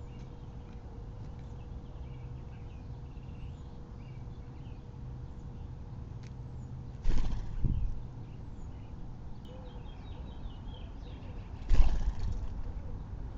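Small backyard birds chirping faintly over a steady low background hum, with two short, louder noises about seven and twelve seconds in.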